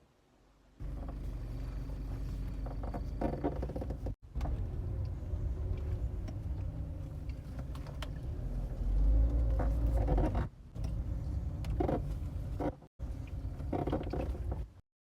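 Car suspension creaking from a ball joint that was not fully installed, repeated squeaks over the low rumble of the moving car. The sound cuts off abruptly three times.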